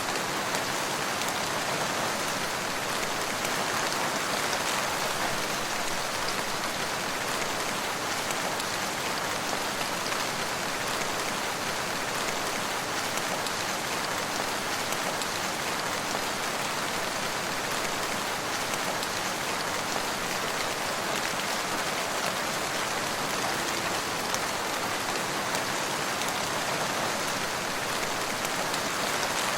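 Steady rain falling, with a dense patter of drops on a surface and no thunder.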